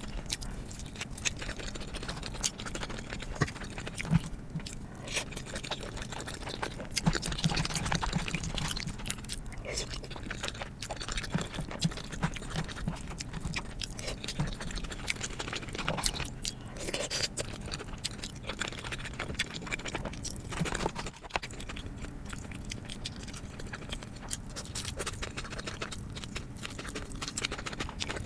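Close-miked chewing and biting of food, with many short sharp clicks and crunches.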